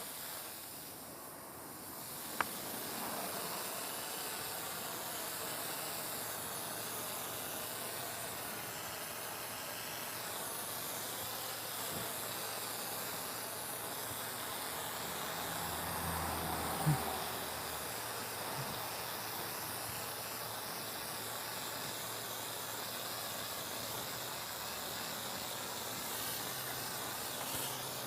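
Self-service wash-bay foam lance spraying foam pre-cleaner, a steady hiss, with two sharp clicks, one a couple of seconds in and one a little past the middle.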